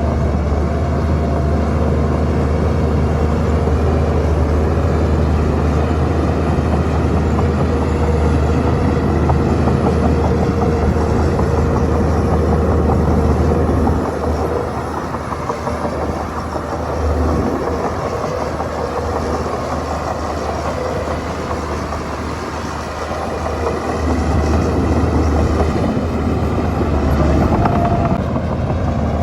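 Shantui bulldozer's diesel engine running as it works, a steady low drone that eases off for about ten seconds midway and then picks up again.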